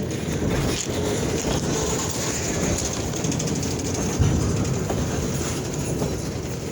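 Freight train cars rolling along the track, wheels clicking over the rail joints, with a thump about four seconds in.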